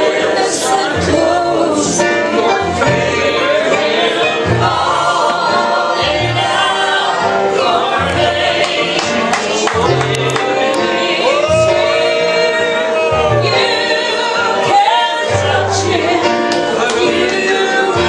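Gospel music: voices singing over a band, with a bass line moving under the singing and light percussion hits.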